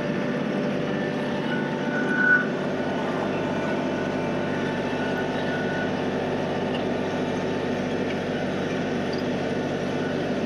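John Deere 3032E compact tractor's three-cylinder diesel engine running steadily while working in a creek. A brief high-pitched tone is heard about two seconds in.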